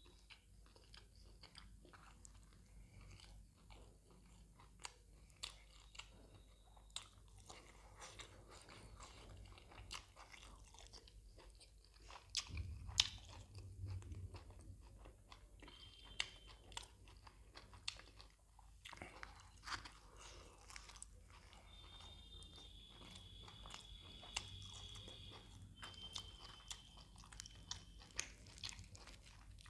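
Close-miked chewing of mutton boti (goat tripe) curry with puri: soft wet mouth sounds with many small sharp smacks and clicks, and a heavier bump about halfway through.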